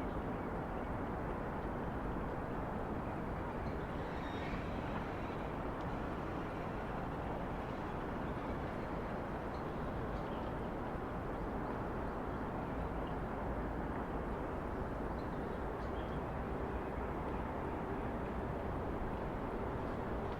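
Steady low hum of distant city traffic, with no single vehicle standing out. A few faint, short high sounds rise above it now and then.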